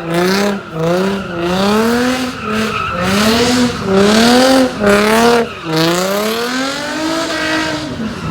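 A car engine revved hard again and again, its pitch climbing and dropping back in quick repeated pulls, then one longer rise and fall near the end.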